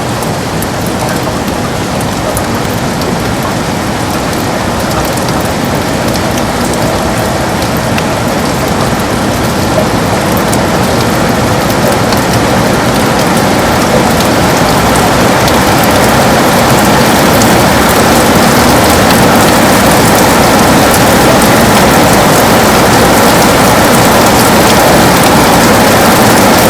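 Heavy rain falling on a window: a dense, steady hiss with fine patter of drops, growing slowly louder.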